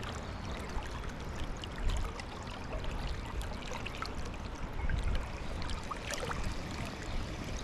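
Steady rush of a fast-flowing, high river, with scattered small clicks and taps over it.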